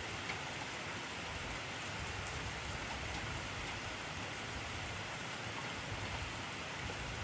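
Intense rain falling steadily: an even hiss with a few sharper drop ticks.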